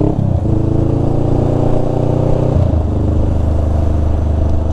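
Honda Rebel 500's parallel-twin engine running under way at a steady pitch. The tone breaks briefly near the start and again about two and a half seconds in, then holds steady.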